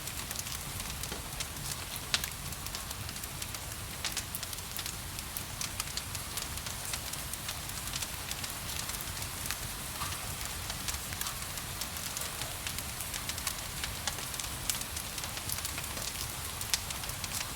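Wood fire crackling and popping in a fireplace, with many small pops and a louder one about two seconds in, over a steady hiss of rain.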